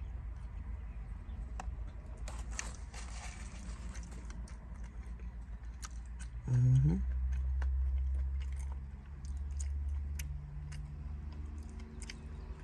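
Close-up chewing and mouth clicks of someone eating a forkful of cooked vegetables. A short rising hum from the eater comes about six and a half seconds in, and a low steady hum follows a few seconds later, all over a steady low rumble of wind through the open car windows.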